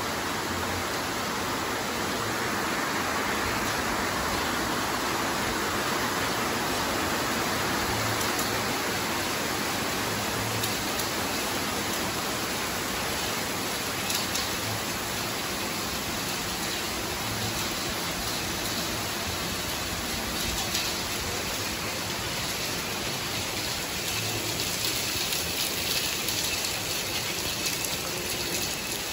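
Heavy rain falling steadily: a constant, even hiss of downpour.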